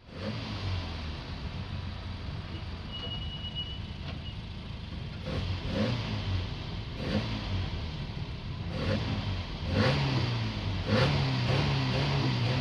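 Racing car engine running under load and revving, misfiring, with repeated sharp pops, its pitch rising and louder about ten seconds in.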